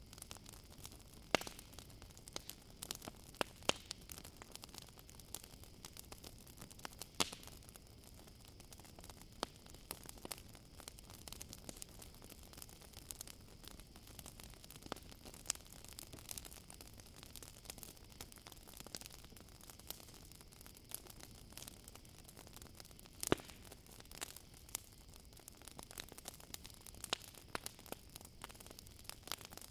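Wood campfire crackling: irregular sharp pops and snaps over a low hiss, with a few louder pops. A faint steady high cricket trill runs underneath.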